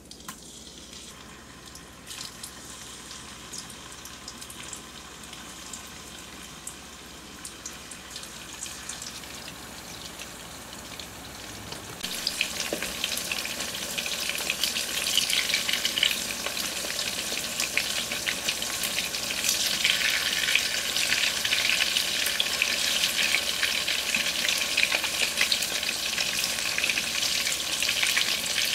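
Pork-stuffed tofu pieces sizzling in hot oil in a wok, laid in meat side down: a steady frying hiss with crackle that turns suddenly louder about twelve seconds in.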